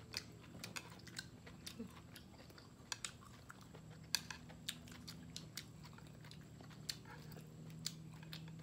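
Close-up chewing and crunching of grilled beef rolls wrapped around bell pepper strips and enoki mushrooms, with many short, sharp crunchy clicks scattered throughout, over a low steady hum.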